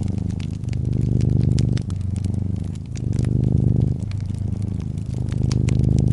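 Brown tabby cat purring steadily close to the microphone, the purr swelling and easing with each breath, over the small, frequent crackles and pops of a wood fire.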